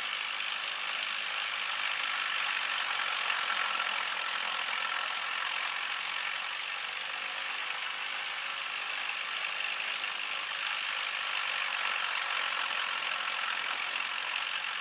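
Left piston engine of a twin-engine propeller aircraft running at run-up power during a propeller governor check, a steady drone heard through the cockpit intercom, thin and with little low end.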